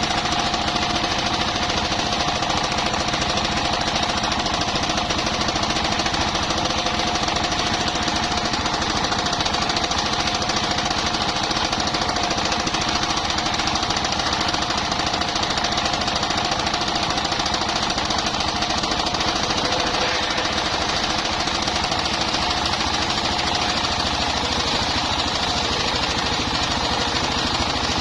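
Engine-driven circular sawmill running steadily: a fast, even knocking beat from its engine with a steady whine from the spinning saw blade.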